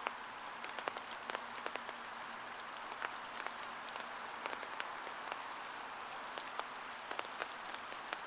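Heavy rain falling, a steady hiss with many sharp, irregular taps of single drops striking close by.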